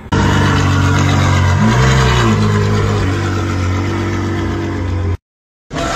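Exotic sports car engine running loudly, with a quick rev that rises and falls in pitch about two seconds in. The sound cuts out abruptly for half a second near the end, then engine noise resumes.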